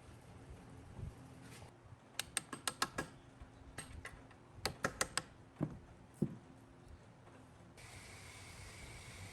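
Hand tools clicking against engine parts: two quick runs of sharp light clicks, five or six in each, then two duller knocks. A steady hiss comes in near the end.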